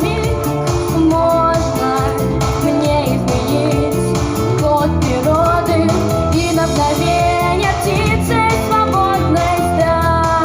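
Pop song: a female voice singing a melody over a backing track with a steady beat.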